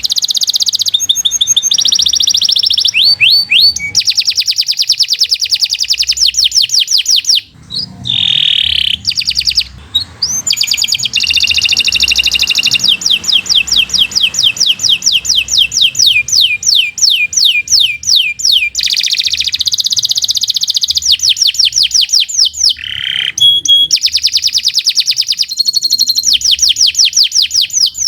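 Domestic canary in full song: a long, almost unbroken run of rapid high trills, each phrase a fast string of repeated notes. There are short breaks about eight, ten and twenty-three seconds in.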